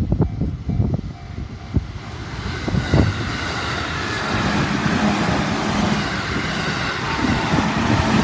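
A train on the JR Tokaido Main Line passing a level crossing. The rushing rail noise and a steady low hum build from about two seconds in and stay loud.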